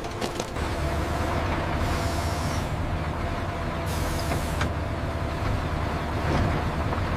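Heavy machinery running with a steady low rumble, with two short bursts of hiss about two and four seconds in.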